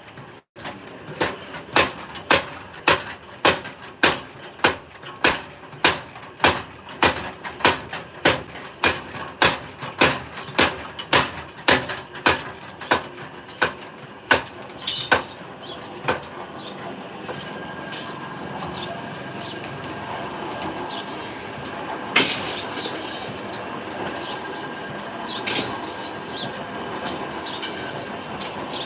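Metal being hammered in a blacksmith's forge: evenly spaced hammer blows ring out about three every two seconds for some fifteen seconds, then stop. A steady hum with a few separate metallic clanks follows.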